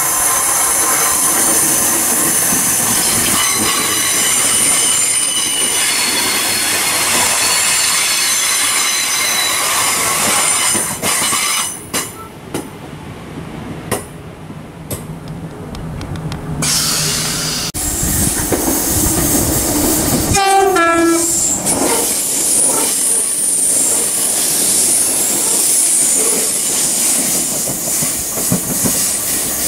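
Northern Class 319 electric multiple units passing on curved track, with loud wheel squeal: many high shrill tones held over the rails. The squeal fades for a few seconds in the middle, leaving a low hum. About two-thirds of the way through, a short tone slides downward in pitch, and then loud squealing returns.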